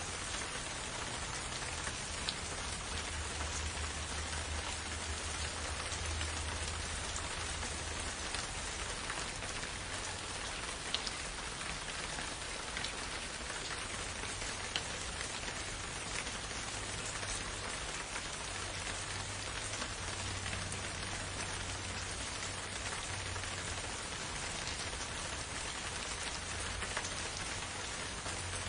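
Steady, even rain falling, with occasional single drops ticking out sharper than the rest and a low steady rumble underneath.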